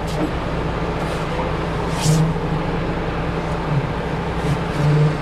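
Semi truck's diesel engine running at low speed while reversing, with a few short surges of throttle.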